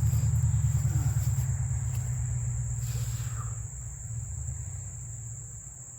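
Crickets chirping as one steady high-pitched trill, under a low rumble that fades away through the second half.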